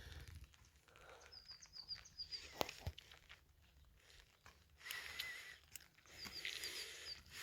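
Small birds chirping: quick runs of short high notes, with a warbling call about five seconds in, over scattered sharp clicks and knocks.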